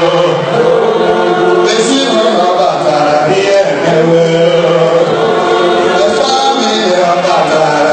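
Choir and congregation singing a worship song, many voices held on long notes together.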